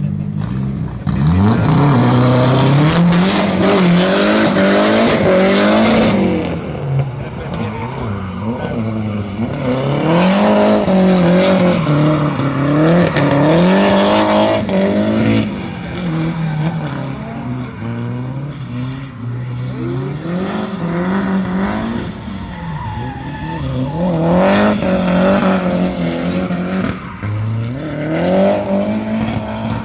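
Rally car engine driven hard, its pitch climbing and dropping again and again as it accelerates, shifts and brakes, loudest in two long surges early on and in the middle.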